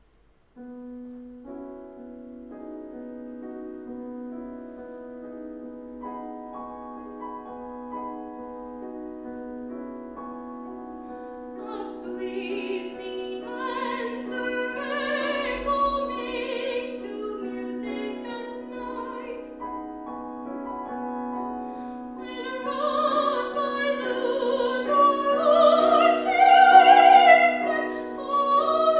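Piano introduction to a classical art song or aria, then a trained singer entering about twelve seconds in, singing with vibrato over the piano accompaniment and growing louder toward the end.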